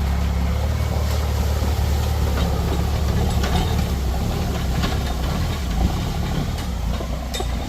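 Truck engine running at low speed with a steady low rumble, with a few faint knocks and rattles scattered through it.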